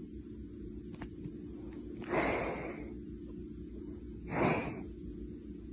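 Two short, breathy snorts about two seconds apart, over a steady low hum.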